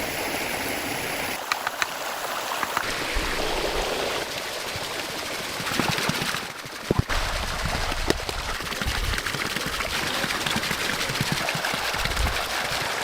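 Stream water running steadily, with a few short knocks from work at the water's edge.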